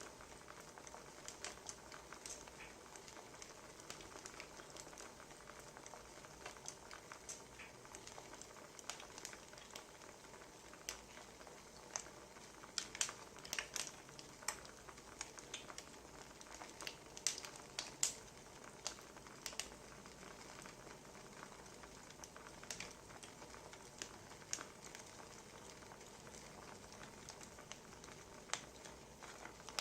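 Wood fire crackling: a faint steady hiss with scattered sharp pops, coming thickest around the middle.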